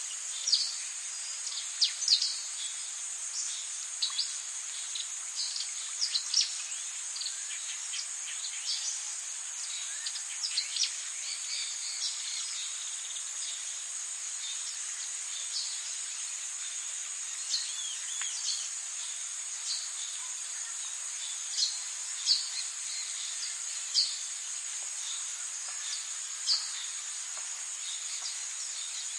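Tropical forest ambience: a steady high-pitched drone of insects with many short, sharp bird chirps over it, coming thick and fast in the first half and more spaced out later.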